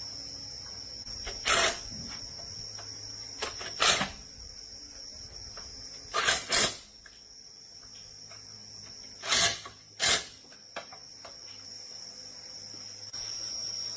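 A steady high-pitched trill, like a cricket, runs throughout. Over it come six short, sharp noises, each lasting well under half a second, the middle ones and the later ones falling in pairs.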